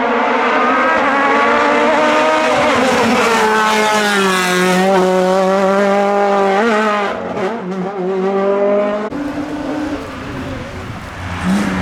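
Hill-climb race car engine driven hard at high revs, its pitch dipping and climbing again through gear changes and corners. About nine seconds in, the sound changes abruptly.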